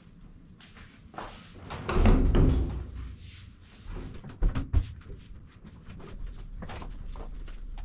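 Knocks and clatter of hard parts being handled, with a heavier low thump about two seconds in and two sharp knocks a little before five seconds.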